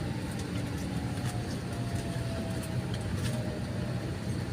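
Steady low drone of an Airbus A320's cabin on the ground before takeoff, with a faint whine slowly falling in pitch and a few light clicks.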